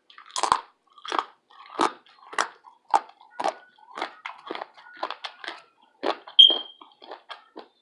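Close-miked chewing of crispy bacon, crunching in a steady run of about two bites or chews a second, with a short high squeak around six seconds in.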